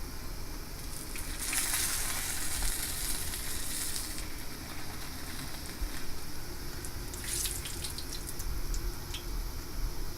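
Water from a kitchen tap running in two short spells, the first about two and a half seconds long and the second about a second, with small clicks and knocks around the second.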